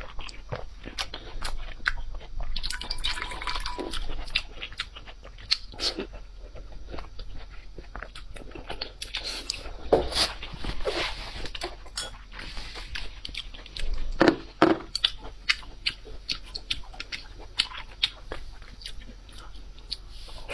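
A person biting and chewing crunchy food close to the microphone, with many irregular crunches.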